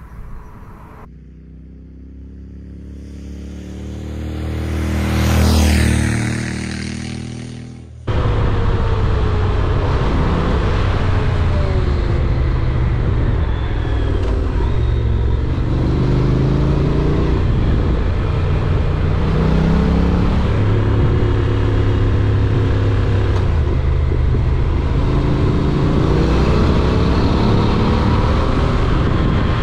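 A vehicle engine passes by, growing louder to a peak about five seconds in and then fading. After a sudden cut about eight seconds in, a Honda NC750X parallel-twin motorcycle engine runs on the move under a loud, steady rush of wind, its pitch climbing several times as it accelerates through the gears.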